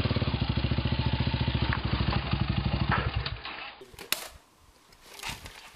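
Dirt bike engine running with a steady, even pulse, then dying away a little past three seconds in. A few faint knocks and clicks follow.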